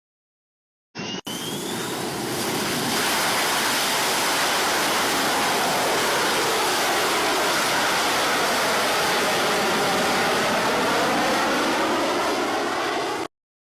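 Loud steady rushing noise of a jet aircraft passing, with a hollow tone that sweeps slowly up and down through it. It starts about a second in and cuts off abruptly shortly before the end.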